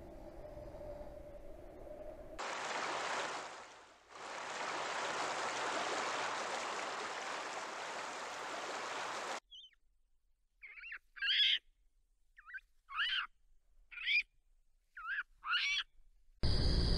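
A faint steady tone, then a steady rushing noise for about seven seconds, then a string of short, high bird calls, mostly in pairs about a second apart. Near the end, a much louder and deeper owl hooting begins.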